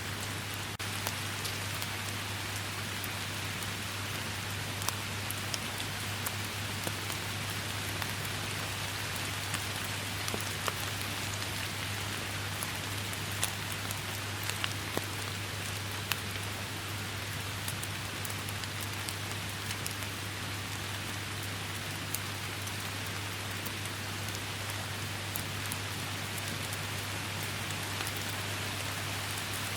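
Steady rainstorm: a dense, even hiss of rain with scattered sharp drop hits and a steady low rumble underneath.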